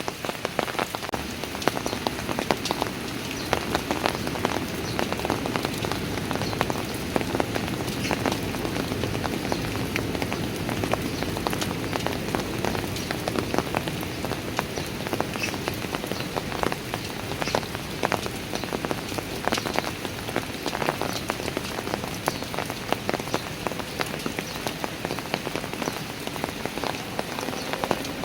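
Steady rain falling on stone steps and paving, with many individual drops ticking and splashing close by.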